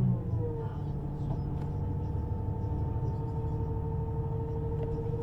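Underground train's electric drive whining over a low running rumble; the whine slides down and settles to a steady pitch about half a second in.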